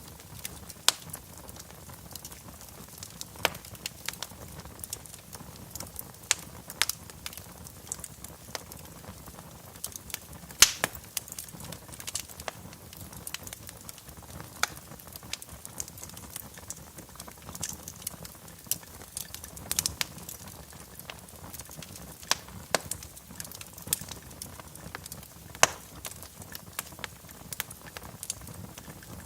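Wood fire burning in a fireplace, crackling with sharp, irregular pops over a faint steady low background.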